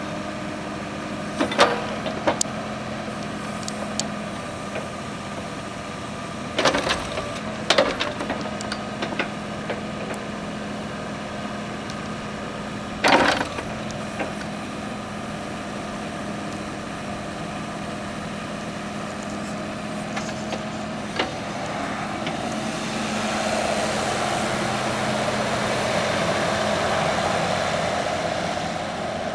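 Kubota KH-170L mini excavator's diesel engine running steadily at idle, with a few sharp metal clanks. About three-quarters of the way through, a louder, rougher noise builds for several seconds and then eases off.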